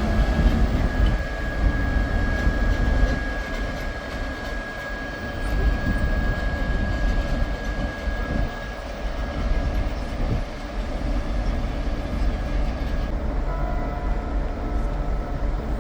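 Passenger train running on rails: a steady low rumble with irregular knocks, and a steady high whine that near the end gives way to a pair of lower tones.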